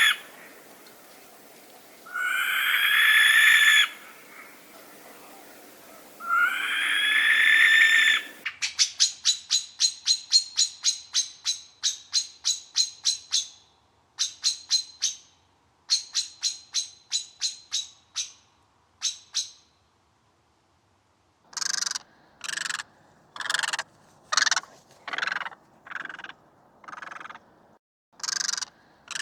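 Three different bird recordings in turn. First come long drawn-out calls, about two seconds each. From about eight seconds in there are rapid runs of short, high notes, several a second. After a brief pause, a different bird gives short, harsh calls about once a second.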